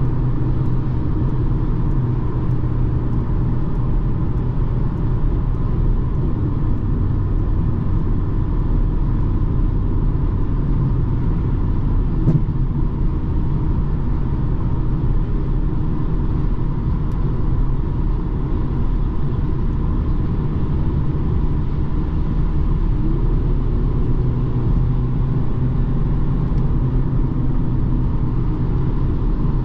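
BMW 220d xDrive Gran Coupe driving at a steady speed: a low, steady rumble of its four-cylinder diesel and road noise. The engine note rises slightly about two-thirds of the way through, and there is a single click about twelve seconds in.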